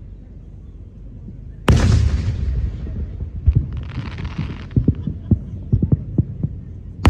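Fireworks going off: a loud boom about a second and a half in, followed by a run of sharp pops with a short burst of crackle, then another boom at the very end.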